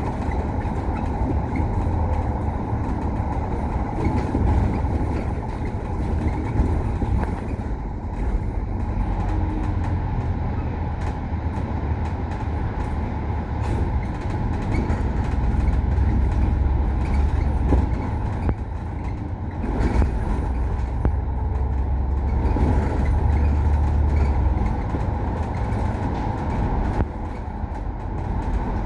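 Kowloon Motor Bus running along the road, with a steady low engine drone, road noise and occasional short knocks and rattles.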